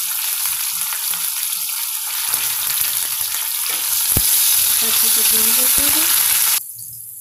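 Green chillies and freshly added curry leaves sizzling in hot oil in a kadai: a tempering, or tadka. From about four seconds in, a spatula stirs them with a couple of sharp knocks against the pan. The sizzle cuts off suddenly near the end.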